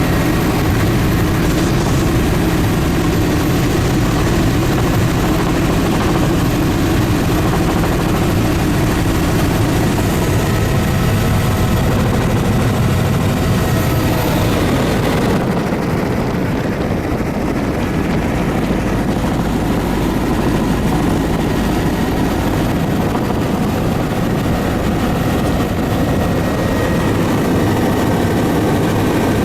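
Aircraft in flight, its engine and rotor or propeller making a continuous steady drone. The higher part of the sound dims briefly about halfway through.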